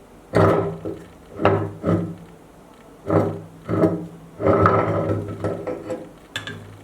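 Meat grinder churning through an ice cream cone in five uneven bursts, each about a second long, with a rough grinding rasp.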